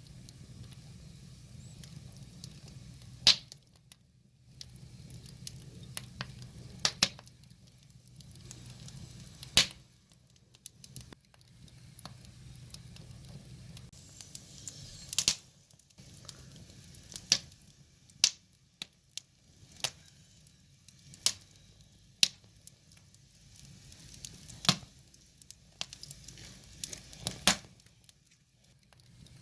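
Wood fire burning, with a low steady hiss and irregular sharp crackles and pops from the logs, about a dozen over the stretch.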